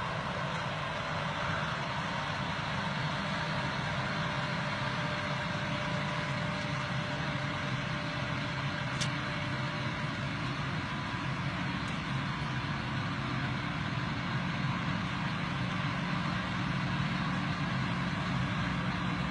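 Diesel engine of a forestry machine running steadily under work, with a short sharp high click about halfway through.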